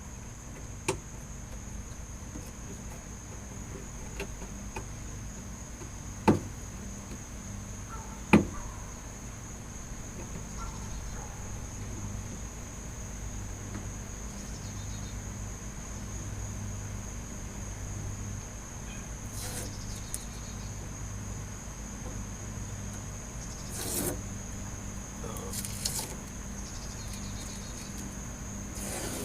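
Steady high-pitched whine, insect-like, over a low hum, with a few sharp knocks about 1, 6 and 8 seconds in and some brief rustling noises later.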